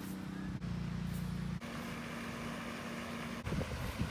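A steady, low motor hum, like an engine running, whose pitch shifts abruptly twice in the first two seconds.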